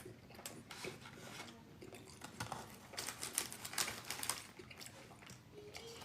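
Eating noises close to the microphone: irregular clicks and crackles of crunching and handling fried food, thickest about halfway through.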